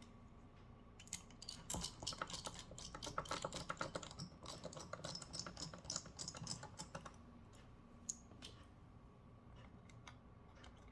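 Small screwdriver driving the heatsink screws down onto the FPGA board: a quick, irregular run of light metallic clicks and ticks for about six seconds, then a few isolated clicks.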